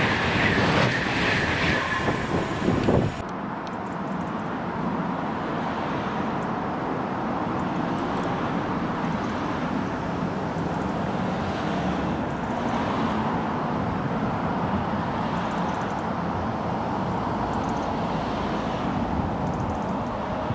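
An electric train running past at speed with a high whine over the rail noise, cut off abruptly about three seconds in. Then a steady rushing of wind and distant rail rumble as another electric train approaches from far off.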